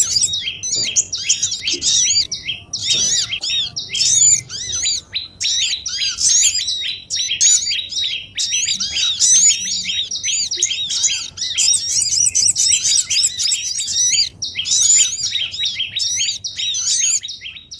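Bird-lure recording of many small songbirds chirping over each other in a dense, busy chorus of rapid high-pitched chirps, played to draw wild small birds in for trapping.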